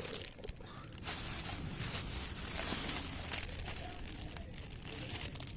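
Small fire of keyaki and willow twigs burning in a fire pit, with steady hiss and scattered crackles and snaps.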